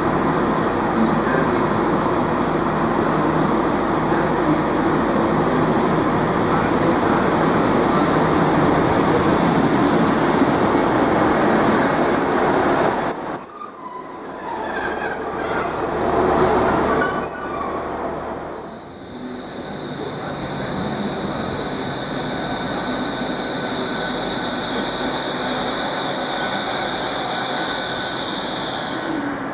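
Diesel multiple-unit trains running along a station platform, a steady rumbling and clatter; about twenty seconds in, a GWR Class 800 train glides past with a steady high-pitched squeal that stops just before the end.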